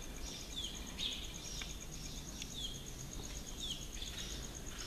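Birds chirping: short falling calls about once a second, over a steady, very rapid high-pitched ticking and a low background hum.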